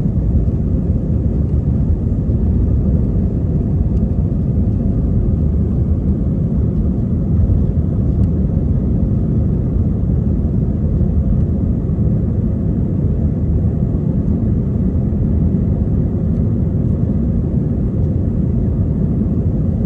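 Airliner during takeoff: a steady low engine and airflow noise that holds at one level throughout.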